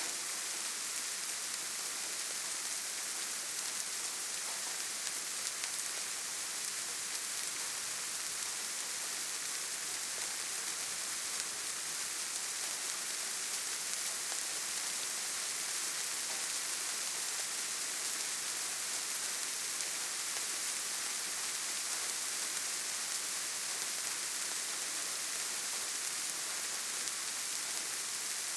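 Steady rainfall, an even hiss of rain on foliage and ground without thunder or other sounds.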